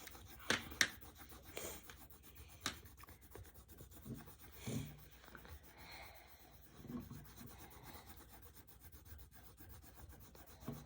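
Coloured pencil rubbing and scratching on paper as someone colours in, faint and uneven, with a few light clicks of the pencil or hand against the table in the first few seconds.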